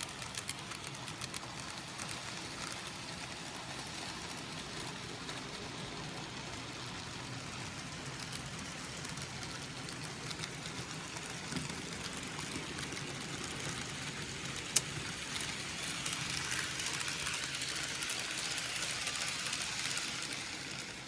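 N gauge model trains running on the layout: a steady whir of small motors and wheels on the track, with fine rapid clicking, and one sharp click about fifteen seconds in. The sound swells for a few seconds near the end, then drops.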